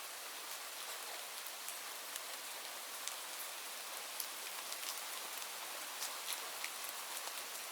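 Steady rain falling, a soft hiss with many separate drops ticking sharply on a surface.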